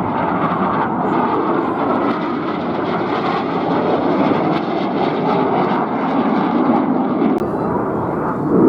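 Engine noise of a display aircraft in flight, a steady drone that holds at an even level.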